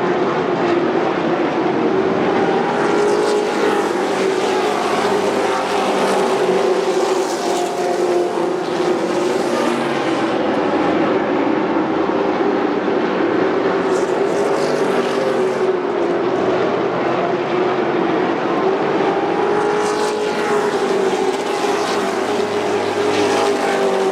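Several race trucks' engines running at racing speed, their pitches rising and falling as the trucks pass and work around the track.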